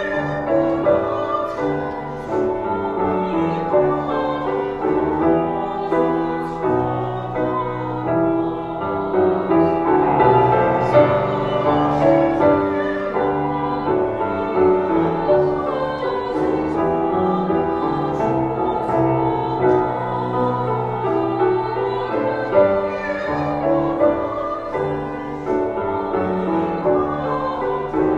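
A national anthem sung by voices with piano accompaniment, in a slow classical style.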